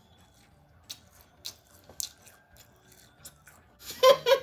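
Faint chewing and mouth clicks of someone eating a soft, chewy oatmeal raisin cookie, then near the end a short hummed "mm" of enjoyment.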